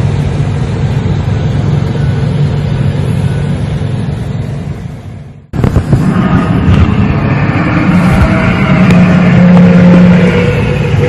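Loud low droning rumble with steady low hums running through it; it fades away about five seconds in and, after a brief gap, another loud drone cuts in abruptly.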